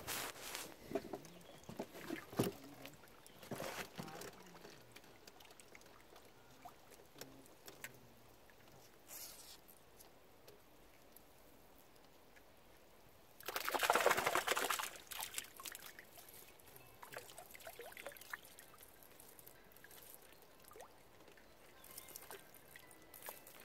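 Water pouring or splashing for about a second and a half near the middle, with faint scattered clicks and rustles of handling before and after.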